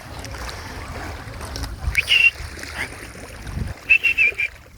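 Wind buffeting the microphone over the sea, a steady rumble with a few low thumps. About two seconds in there is a short high-pitched squeal, and near the end a quick run of four more.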